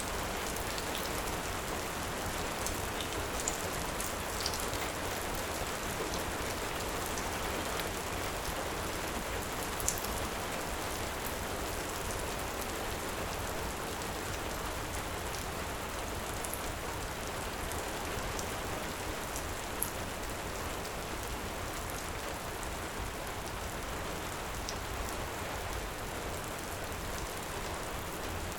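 Heavy rain falling steadily, an even hiss with no let-up, with a few scattered sharp pops of a crackling wood fire.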